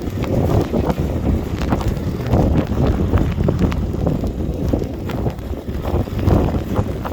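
Strong wind buffeting the microphone: a continuous low rumble with constant crackling.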